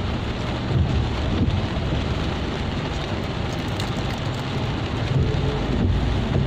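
Heavy rain pouring down, a steady hiss over a low rumble.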